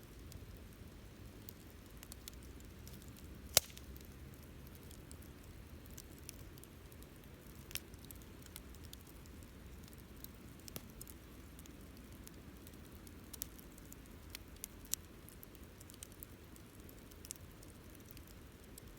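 Wood campfire crackling, with a low steady rush of flame and scattered sharp pops and ticks, one much louder pop about three and a half seconds in.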